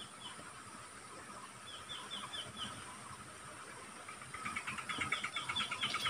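Faint bird calls: two runs of short, high, falling notes, the second joined by a denser chatter near the end, over a steady faint insect drone.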